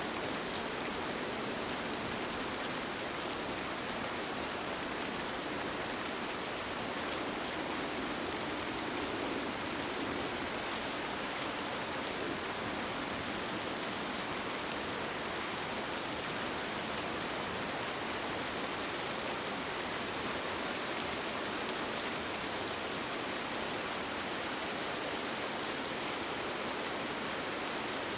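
Steady rain falling on a tent, an even hiss with scattered individual drops pattering on the fabric.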